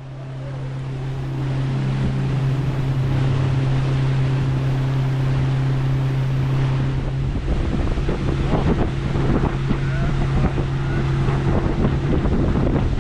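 Boat motor running steadily under way, a constant low drone. From about halfway through, wind buffets the microphone in gusts.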